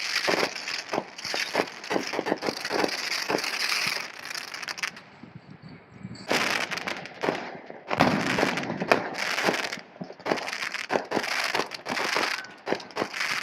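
Fireworks crackling and popping in rapid, irregular cracks. There is a short lull about five seconds in, and then the crackling starts again.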